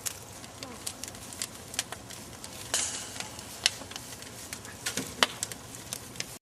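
Campfire crackling, with sharp pops scattered irregularly throughout and a short hiss about three seconds in. The sound cuts off suddenly just before the end.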